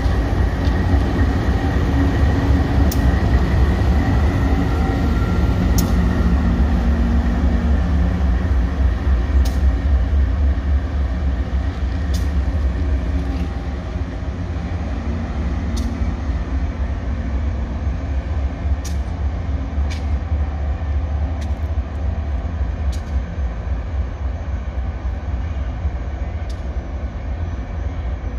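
Diesel freight locomotive running past, a deep steady rumble of its engine and wheels. After a sudden drop in level about halfway through, a locomotive-hauled container train approaches with the same low rumble, with occasional sharp clicks.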